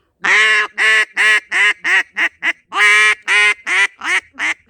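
Double-reed mallard duck call (Buck Gardner Mallard Hammer) blown as a comeback call: two quick runs of loud quacks, each opening with a longer note and then five or six shorter, faster ones.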